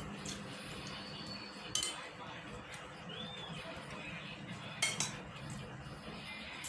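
Cutlery clinking against a plate while eating: two sharp clinks about three seconds apart, with a few fainter taps between them.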